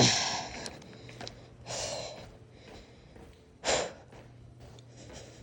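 A person's breathing picked up close to a helmet-mounted phone microphone: three short, noisy breaths, near the start, about two seconds in and near the four-second mark, over a faint steady hum.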